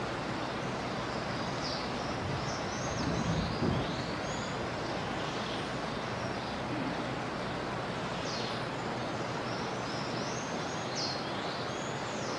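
Steady hiss of a quiet room recording, with faint short high bird chirps scattered throughout and one low bump about three and a half seconds in.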